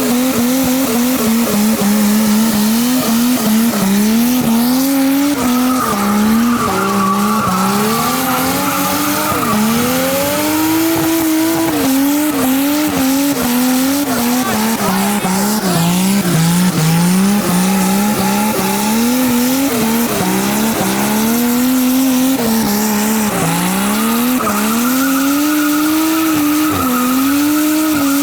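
Nissan R32 Skyline's turbocharged RB20E straight-six held at high revs in first gear during a burnout, its pitch rising and falling every second or two as the throttle is worked, with the rear tyres spinning and squealing.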